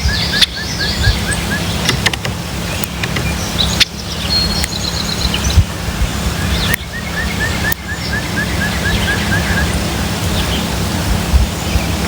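Songbirds calling: a run of short chirps repeated about five times a second, twice, with scattered higher chirps, over a steady low rumble.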